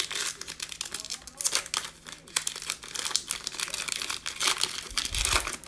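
Plastic wrapper of a trading-card pack crinkling and tearing as the pack is ripped open and handled, in a dense run of crackles, with a low thump near the end.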